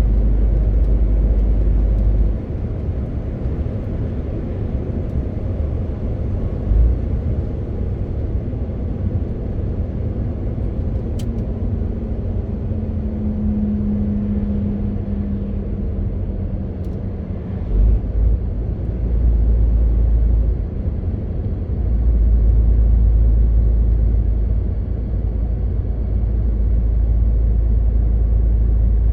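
MAN TGX 18.520 truck driving, its diesel engine and road noise running continuously. A deep low rumble drops about two seconds in and swells again in the second half, with a brief steady hum in the middle.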